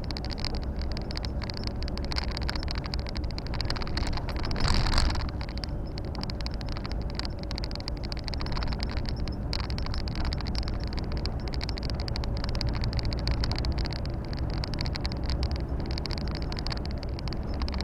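Volvo FH 460 truck's 13-litre six-cylinder diesel running at cruise, heard from inside the cab as a steady rumble mixed with road and wind noise. A brief, louder rush of noise comes about five seconds in.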